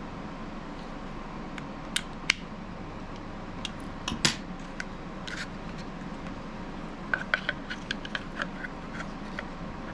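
Scattered small clicks and taps of a belt clip and knife sheath being handled and fitted, the loudest pair about four seconds in and a run of quick light clicks between about seven and eight and a half seconds, over a steady low hum.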